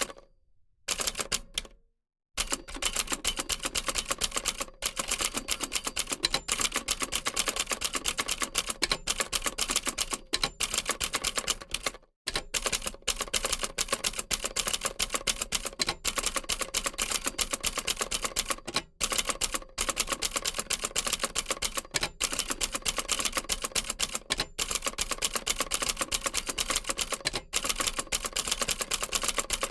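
Old typewriter typing at a rapid, steady pace: a dense run of sharp key strikes. After a short pause near the start the typing goes on, with brief breaks around twelve and nineteen seconds in.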